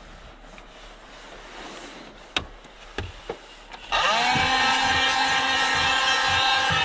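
A few sharp clicks, then about four seconds in a small electric motor starts, spins up quickly and runs steadily with a high whine.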